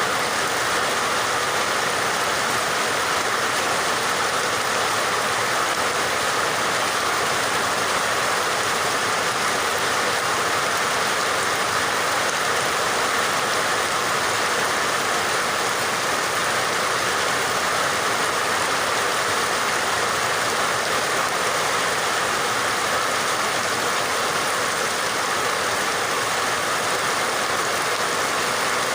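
Steady heavy rain, a constant even hiss of falling water with no distinct drops or changes.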